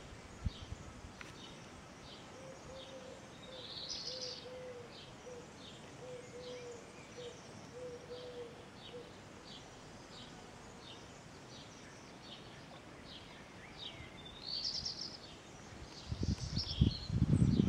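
Small birds chirping, short high chirps about twice a second, with brief fuller bursts of song about four seconds in and again near the end. A faint low note repeats in short pieces during the first half, and a few louder low rumbling bursts come near the end.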